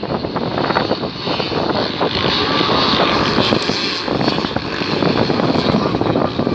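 Motocross motorcycle engines running hard and revving, the pitch rising and falling as the bikes race by.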